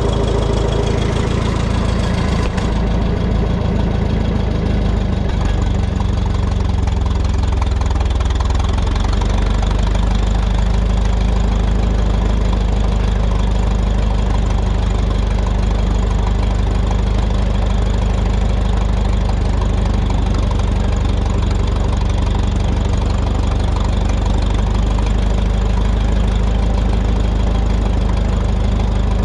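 Minneapolis Moline tractor's carbureted gasoline engine running steadily at idle, now that fuel is reaching it again.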